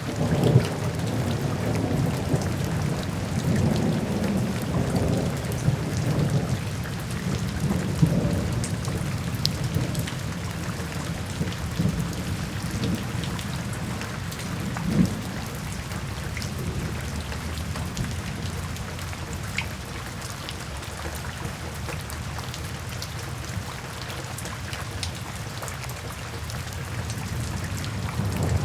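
Steady rain falling, with scattered sharp drip ticks, and a low rumble of thunder that is strongest over the first several seconds, dies away through the middle and builds again at the very end.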